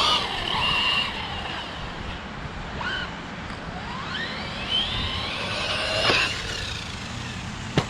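Hobao Hyper VS2 electric RC buggy's motor whining, its pitch rising and falling with throttle as it runs up at a jump. Two sharp knocks come from the chassis and tires landing, the second just before the end.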